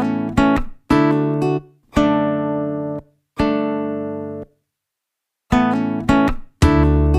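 Background music: acoustic guitar chords strummed one at a time and left to ring out, with a second of silence about two thirds of the way through, then quicker strums near the end.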